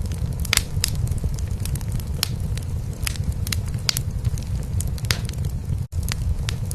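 Wood fire crackling in a fireplace, with many sharp pops, over a steady low purr of a cat. A momentary dropout breaks the sound just before the end.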